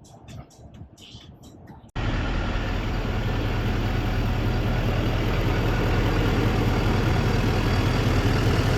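Faint music for about two seconds, then an abrupt cut to a diesel engine idling steadily, with a deep, even hum under broad noise.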